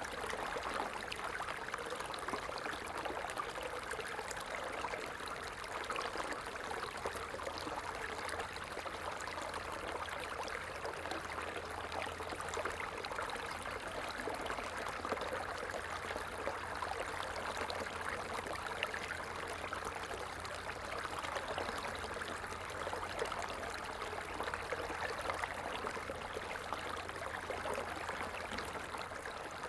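Small stream running steadily, with water trickling and splashing over rocks.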